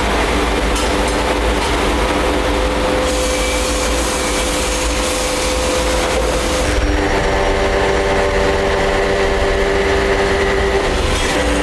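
Heavy workshop machinery running steadily: a constant low hum with several steady whining tones. Grinding hiss comes and goes in the middle, and the whine changes pitch pattern about seven seconds in.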